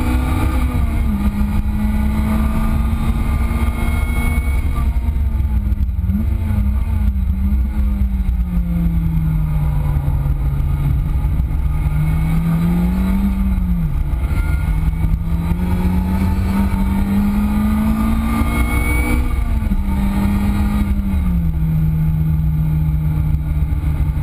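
Lotus Exige S's supercharged 1.8-litre four-cylinder engine at high revs, its pitch climbing under acceleration and dropping sharply several times on lifts and gear changes, over a steady rush of wind and road noise.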